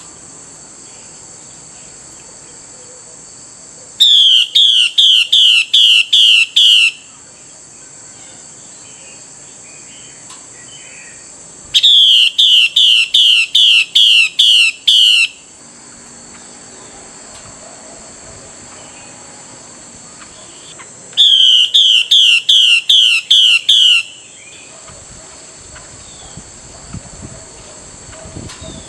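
Female Chinese hwamei giving its harsh 'xùy' call, used to provoke a male into song: three bursts of about eight rapid, down-slurred notes each, several seconds apart. A steady high-pitched buzz runs underneath.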